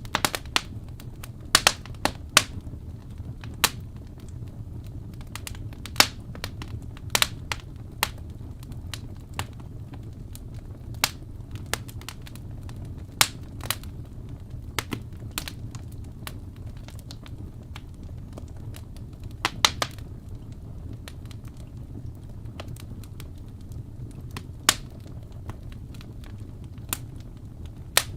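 Wood fire burning in a fireplace: a low steady rumble of flames with sharp, irregular crackles and pops, some much louder than the rest.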